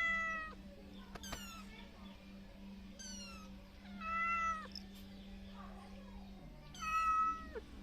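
A 25-day-old kitten meowing repeatedly, calling for its mother: high-pitched mews, the loudest at the start, about four seconds in and near the end, with fainter ones between. A steady low hum runs underneath.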